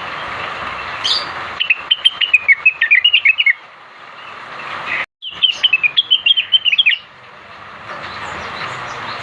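Cucak wilis (blue-winged leafbird) singing two rapid bursts of high, jumping chirps, each about two seconds long, over a steady hiss, with a sudden break between them.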